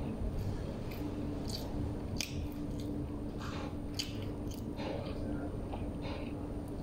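A person chewing a mouthful of filled Arabic flatbread (khubz), with scattered wet mouth clicks and soft squishy sounds, over a steady low hum.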